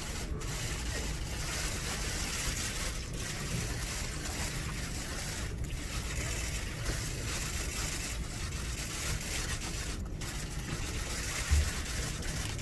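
Many press cameras' shutters firing in rapid, overlapping bursts, a dense crackling patter that briefly pauses a few times. There is a single low thump near the end.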